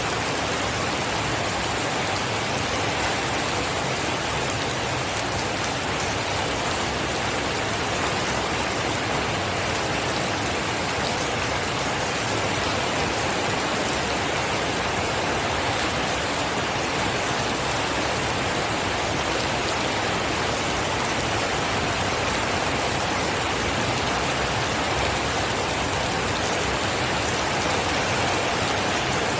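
Steady rain falling, an even hiss across all pitches that holds at one level throughout, with no thunder.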